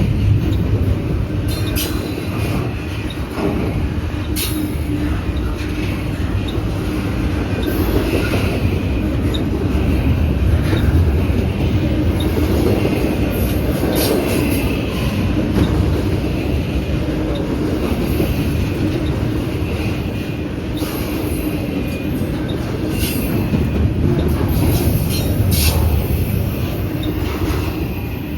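A loud, steady low rumble with a held hum, scattered sharp clicks and occasional high-pitched squeals.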